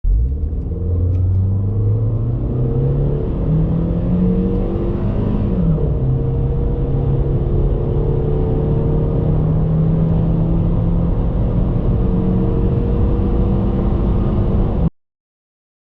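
Volkswagen Golf Mk4 petrol engine under full-throttle acceleration, revs climbing steadily. An upshift comes about five and a half seconds in, then the engine pulls on slowly rising in the next gear. The sound cuts off abruptly near the end.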